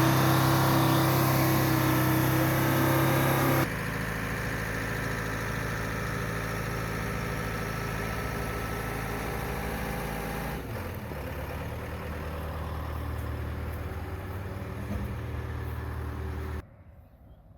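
A motor vehicle's engine running steadily. Its sound changes abruptly twice, about four and eleven seconds in, and breaks off sharply near the end.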